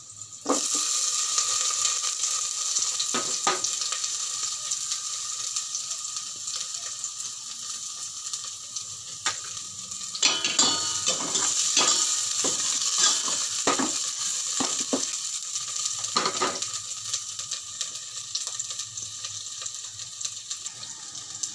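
Chopped onion and garlic sizzling in hot oil in a stainless steel pot, the sizzle jumping up about half a second in as the onion goes in. A utensil stirs and knocks against the pot now and then, most often about ten to fourteen seconds in.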